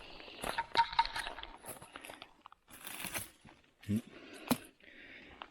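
Footsteps crunching and rustling over dry leaves and twigs, with irregular sharp snaps and crackles.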